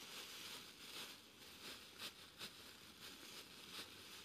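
Faint rustling and crinkling of a metallised multi-layer survival blanket as it is wrapped around a body and taped shut, with a string of short, sharp crackles.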